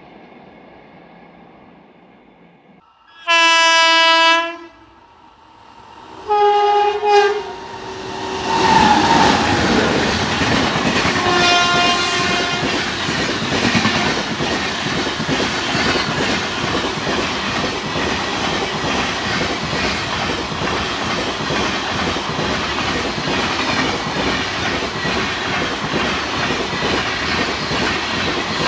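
An Indian Railways express train sounds its horn, one long blast and then a shorter one, and runs past with a loud steady rushing and rattling of wheels and coaches. A fainter third horn note sounds partway through the passage.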